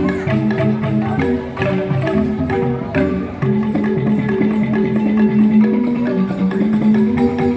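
Balinese gamelan joged bumbung music: bamboo xylophones (grantang) struck in quick, dense interlocking patterns, with other percussion, playing without a break.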